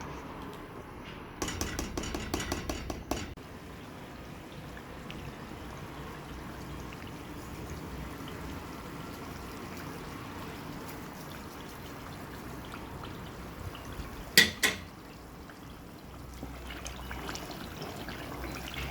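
Steady liquid hiss. A quick run of small clicks comes about a second and a half in, and two sharp knocks come about fourteen seconds in.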